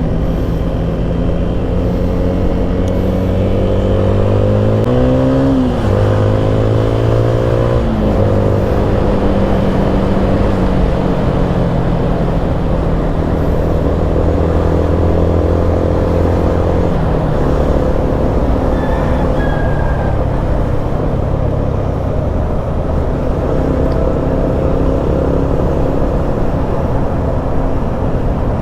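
Motorcycle engine running under way, climbing in pitch and dropping back at each gear change, three shifts in all, over steady wind and road noise.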